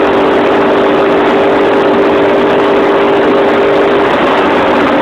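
2006 Pontiac GTO's 6.0-litre LS2 V8 running hard at high speed, loud, with road and wind noise. The engine note holds a steady pitch and drops slightly about four seconds in.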